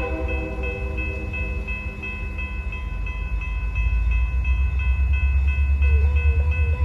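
A train passing close by: a heavy low rumble that grows louder after a few seconds, with steady high-pitched tones running over it. The train horn cuts off right at the start.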